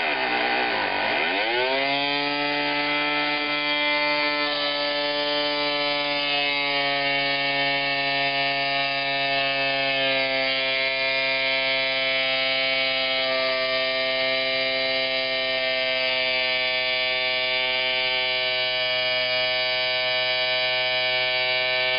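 Tiny Philcraft twin-cylinder marine steam engine running fast with a steady, high-pitched whirr. Its pitch dips sharply within the first second, climbs back by about two seconds in, then holds nearly steady.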